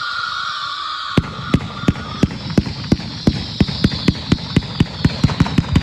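Fireworks: a high, slowly falling whine with a hiss fades out, and about a second in a rapid string of sharp cracks begins, several a second and quickening.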